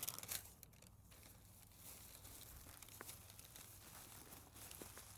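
Faint crinkling and rustling of plastic litter being handled, loudest in the first half second, with a single light click about three seconds in.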